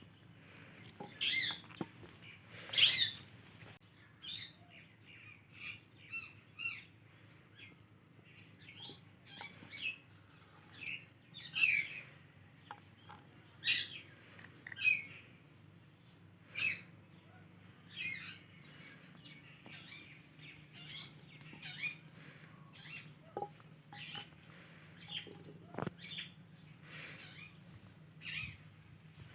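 Pet parrot giving short chirps and squawks every second or two, the loudest about three seconds in.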